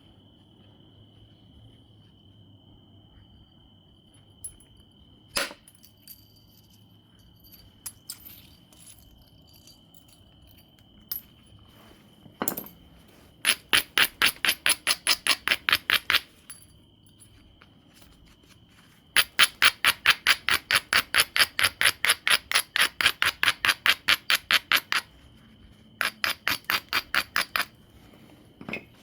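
Flintknapping on obsidian: a few scattered sharp clicks of tool on stone, then three long runs of fast, even clicking, about eight clicks a second, as the tool works rapidly along the obsidian's edge.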